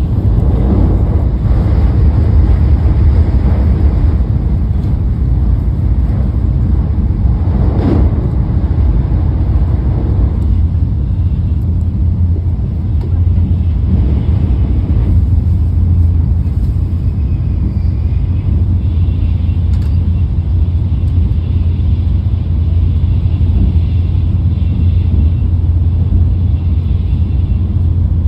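Steady low rumble of a Shinkansen bullet train's passenger cabin running at speed, with a few brief swells of noise along the way.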